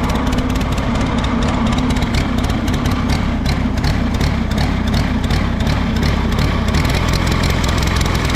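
Allis-Chalmers G tractor's four-cylinder engine running at idle, unevenly, not firing on all four cylinders: a misfire the owner puts down to a faulty spark plug wire, though he allows it could be the carburettor.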